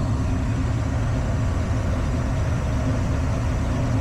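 Gas furnace running with its circulating blower on: a steady low rumble that holds level throughout.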